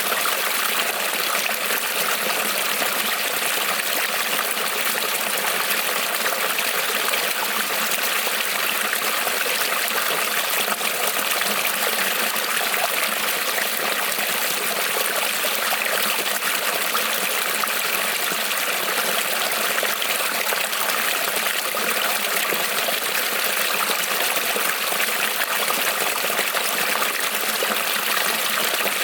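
Small creek rippling and trickling over stones, a steady even rush of running water.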